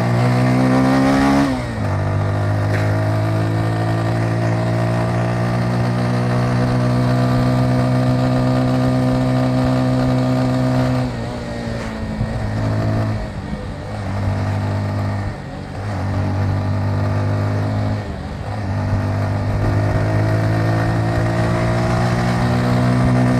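Motorcycle engine under way. Its revs climb briefly, then drop about a second and a half in, and the engine holds a steady note for about ten seconds. Over the next several seconds it eases off and picks up again a few times before settling into a steady run to the end.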